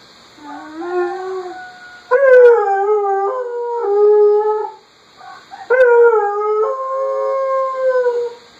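Dog howling at a phone alarm: long, wavering howls, with two loud ones that swoop up at the start, about two seconds in and again near six seconds.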